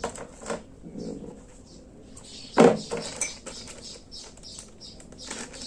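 Clicks and knocks of a helmet mount being handled and fitted onto a motorcycle helmet, with one sharp, loud knock about two and a half seconds in.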